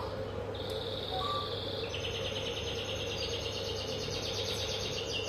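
A small songbird singing: high whistled notes, then a fast chirping trill from about two seconds in, over a steady low hum.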